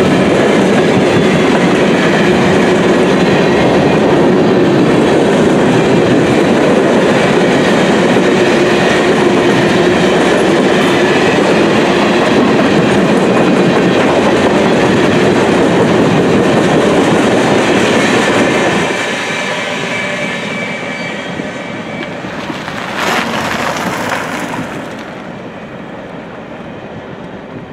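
Freight cars of a long mixed freight train, hopper and tank cars, rolling past close by with a steady clatter of wheels on rail. About two-thirds of the way through the noise drops off as the last car passes and the train rolls away. A brief louder noise comes a few seconds later.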